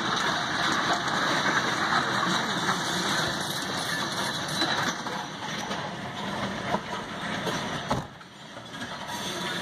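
Loaded freight hopper cars rolling past at a grade crossing, a steady rumble and clatter of wheels on rail, heard from inside a stopped vehicle. There is one sharp clank just before seven seconds, and a brief drop in level a little later.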